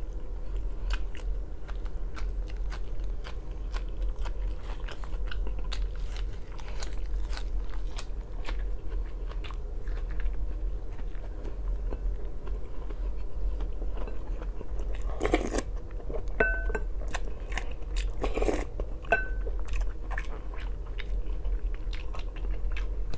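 Close-up eating sounds of borscht, boiled sausage and fresh greens: many small wet mouth clicks, bites and crunches while chewing, over a steady low hum. Two louder bites or crunches come about two-thirds of the way through.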